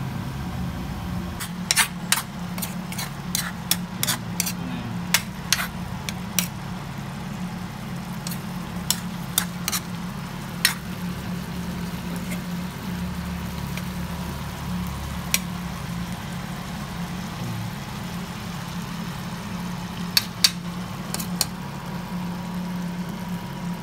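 Adobo simmering in its oil in a wok, with scattered sharp pops and clicks in clusters over a steady low hum.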